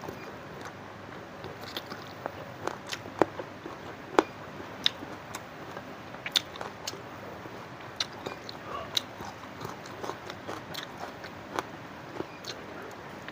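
Close-up eating sounds of a person chewing and biting spicy chicken feet: irregular sharp clicks, snaps and smacks from the mouth, several times a second at the busiest moments, over a faint steady hiss.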